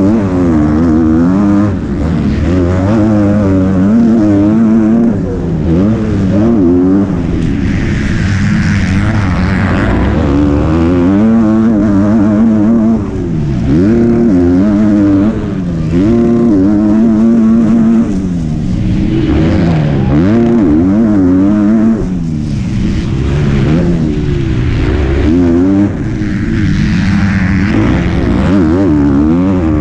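Motocross bike engine heard up close from the bike, revving hard and repeatedly: the pitch climbs, falls back, and climbs again every couple of seconds as the throttle is opened and closed through the gears and corners, with short drops in loudness at the shifts.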